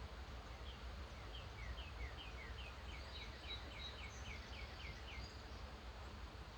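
A songbird singing a faint series of short, downslurred notes that speed up as they go, about four seconds long, with a few higher chirps from another bird in the middle, over steady background hiss and a low hum.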